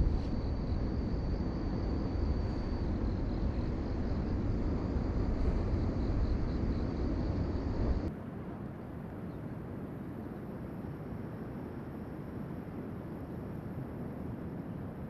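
Steady low rumbling outdoor noise, changing suddenly to a quieter, thinner hiss about eight seconds in.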